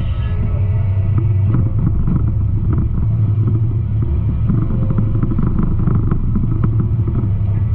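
Garbage truck engine rumbling steadily, with light clicks and rattles over it.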